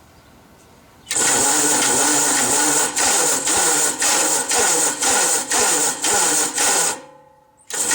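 The 6-volt electric starter on a 1945 Gravely Model L cranks the engine over, with a regular pulse about twice a second as it turns through compression. The engine does not fire: the starter is not spinning it fast enough. It stops about six seconds in and starts cranking again near the end.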